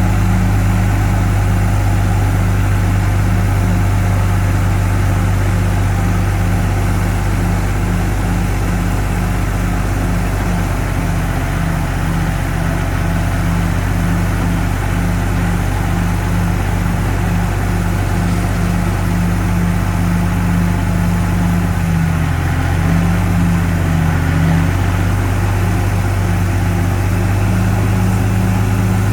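Heavy diesel engine of an earthmoving machine running steadily at an even pitch, dipping briefly a little past two-thirds of the way through.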